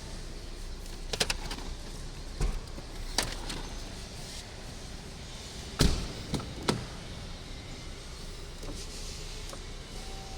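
A series of sharp knocks and clunks around a car, the loudest about six seconds in, over a steady background noise.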